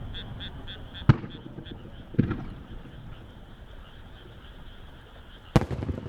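Aerial firework shells bursting: three sharp bangs, about a second in, about two seconds in and a louder one near the end, each trailing off in a low echoing rumble.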